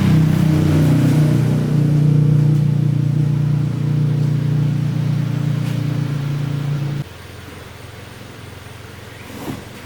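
Engine running steadily at a constant speed, cutting off abruptly about seven seconds in.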